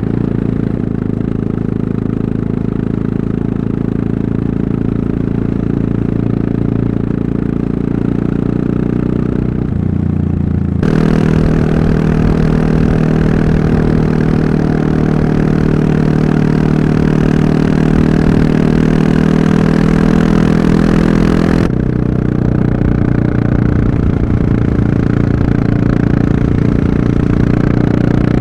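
Yamaha MT-03's 660 cc single-cylinder engine running at a steady, even pitch while riding. About a third of the way in the sound turns louder, with more rushing noise over the engine, then drops back about two-thirds of the way through.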